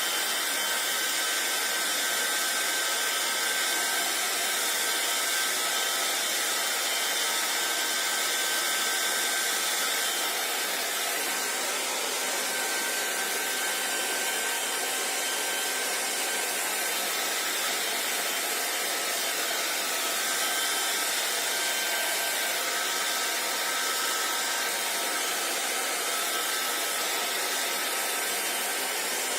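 Hair dryer blowing steadily: an even rush of air with a thin, high motor whine over it. About ten seconds in the sound drops slightly and shifts in tone, then holds steady again.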